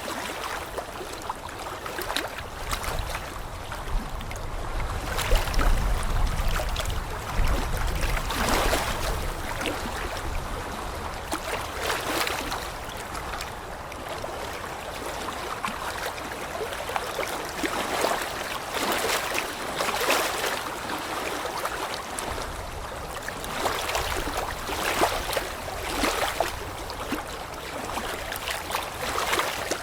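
Running water rushing and splashing steadily in surges, with low rumbles now and then.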